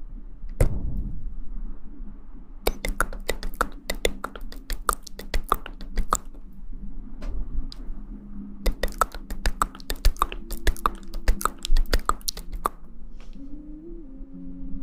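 Close-up clicking and tapping: a single low thump, then two rapid runs of sharp clicks a few seconds each.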